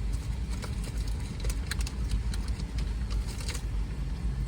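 Steady low rumble of a car idling, heard from inside, with a quick irregular series of light clicks or taps that stops about three and a half seconds in.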